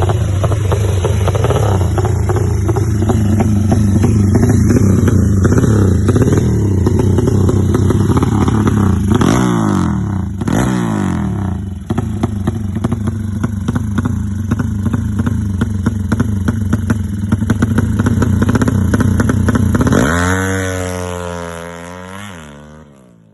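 Newly fitted engine running steadily and loudly, with two brief drops in pitch about halfway through; near the end it winds down with a wavering pitch and fades away.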